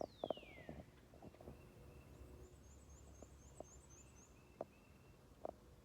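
Faint birdsong in the trees: a high whistle sliding down in pitch at the start, then a quick high trill of about eight short notes a couple of seconds in. There are a few soft clicks, two of them near the end.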